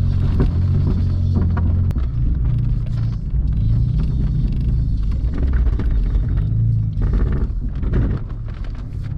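Off-road vehicle's engine running at low speed as it crawls over rocks, its note shifting about two seconds in.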